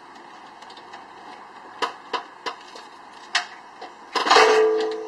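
A few sharp metal clicks and knocks, then a louder metallic clang about four seconds in that rings on briefly.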